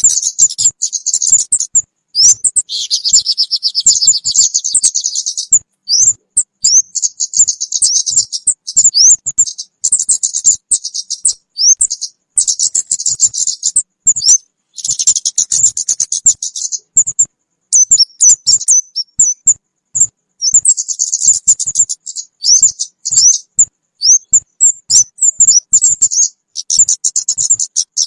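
Kemade bird calls used as a trapping lure (suara pikat): rapid high-pitched chirps, sharp swept notes and buzzy trills, in bursts with short gaps between them.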